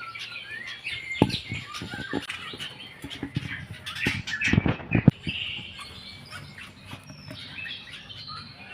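Jalak Rio-rio starling chicks chirping in many short, high calls, with a few sharp knocks or rustles about a second in and again around four to five seconds in.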